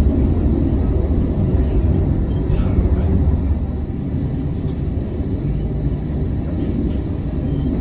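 Amsterdam tram running between stops, heard from inside the car: a steady low rumble of wheels and motors, easing slightly about halfway through.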